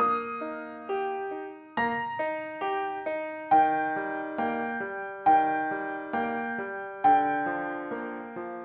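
Piano music: notes and chords struck about once a second, each left to ring and die away, fading out near the end.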